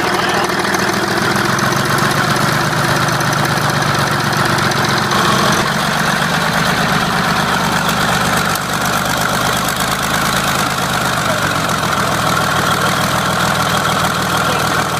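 1959 Mercedes-Benz L330 truck's diesel engine running steadily at idle, just after start-up.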